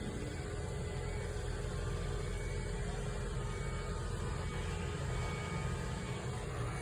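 Steady low background rumble with a faint hum, even throughout, with no distinct events.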